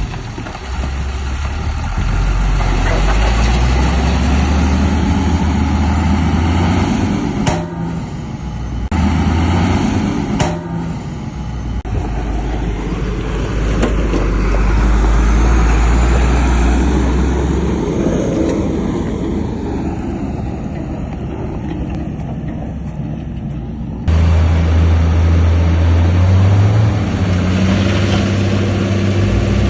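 Heavy diesel earthmoving machinery, a bulldozer and dump trucks, running and working under load. There are two sharp knocks about 7 and 10 seconds in, and the engine sound changes abruptly twice.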